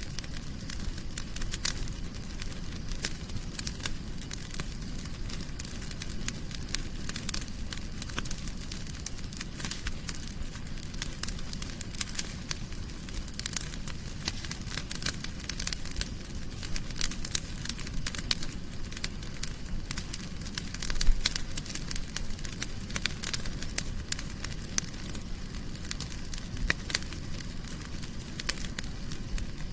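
Wood fire burning in a fireplace, crackling with many small sharp pops over a low steady rumble of flame, with one louder pop about two-thirds of the way through.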